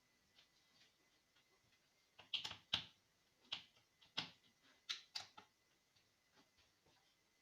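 A string of irregular light clicks and taps, the loudest cluster about two and a half seconds in, over a faint steady high tone.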